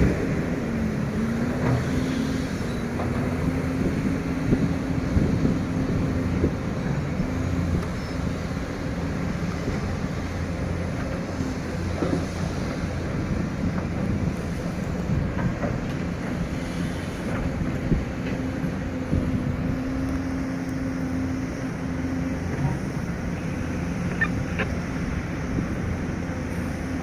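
Heavy diesel engine of an excavator running steadily, its pitch settling lower just after the start, with a few light knocks over the hum.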